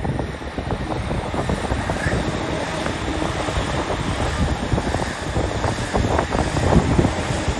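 Electric train running on the tracks below, a steady dense rumble and rattle of wheels on rail, with wind buffeting the microphone.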